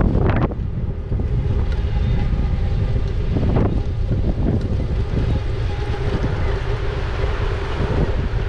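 Wind buffeting the microphone of a camera on a moving e-bike: a steady low rumble with a few louder gusts, one near the start and another about three and a half seconds in.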